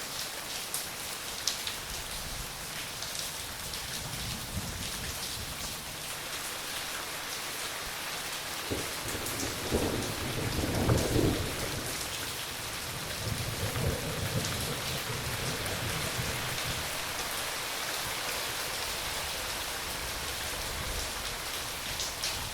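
Steady rain falling, with a low rumble of thunder building about nine seconds in, peaking a couple of seconds later and fading, then a softer rumble shortly after.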